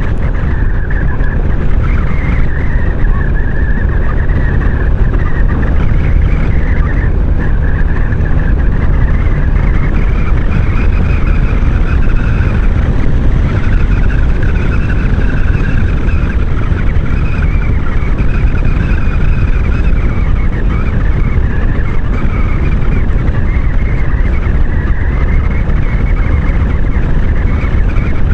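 Wind buffeting the microphone while riding a 500cc maxi-scooter at speed, with the engine running underneath as a steady drone.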